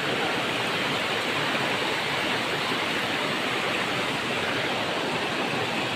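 Waterfall rushing, a steady even roar of falling water with no breaks.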